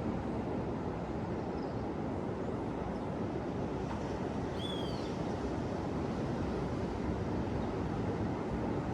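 Steady low rush of ocean surf washing onto a beach, with one short bird chirp about five seconds in.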